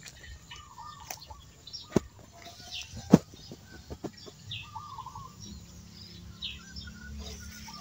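Small birds chirping in short, repeated calls, with two sharp clicks about two and three seconds in.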